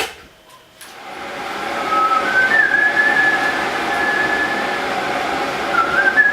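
Kettle heating up: a click, then a rushing noise that swells over about a second and holds steady, with a wavering whistle-like tone above it.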